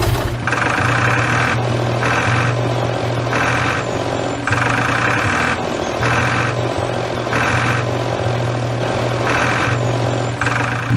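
Small engine running steadily, with a rhythmic pulse about once a second, as from a mini diesel water pump.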